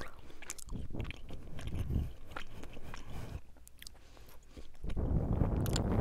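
A person chewing and biting close to the microphone: scattered wet mouth clicks and smacks, with a louder, rougher stretch of chewing about five seconds in.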